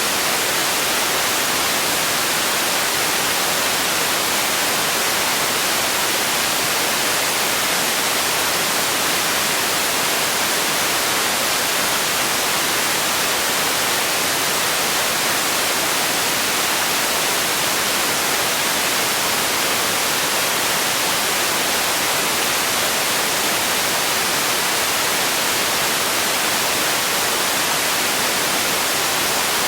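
Steady, unchanging noise made for sleep: an even hiss, brighter in the high register than in the low, with no breaks or changes.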